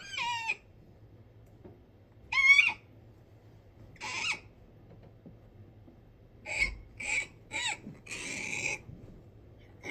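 A person's vocal imitation of starling calls: short, high, warbling squeaks and hissy chatter in separate bursts. There is one call about two and a half seconds in, a hiss a little past four seconds, three quick squeaks between six and a half and eight seconds, and a longer hissing chatter near the end.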